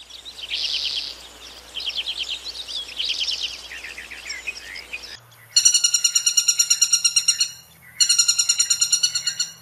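Small birds chirping and trilling in high, quick phrases for the first five seconds. Then a woodpecker gives two rapid, pulsing rattles, the first about two seconds long and the second a little shorter.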